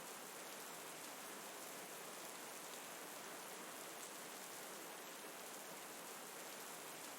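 Gentle rain falling steadily, an even hiss with no changes.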